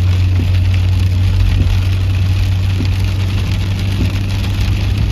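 Steady low drone of a car driving, with rain spattering on the vehicle, and a faint regular tick about once every second or so.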